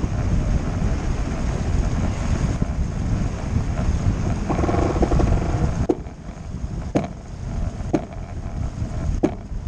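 Wind buffeting the microphone aboard a sailboat under way, with water rushing past the hull; the buffeting eases about six seconds in, and a few sharp knocks follow about a second apart.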